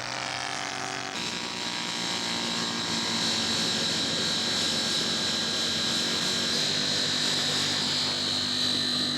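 Radio-controlled scale model airplane engine running steadily with a high-pitched whine. The sound changes abruptly about a second in.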